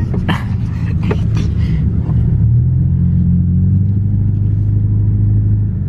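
Subaru Impreza 2.5 RS's flat-four engine idling with its muffler deleted: a steady, deep exhaust rumble. About halfway through, the note rises a little and gets louder.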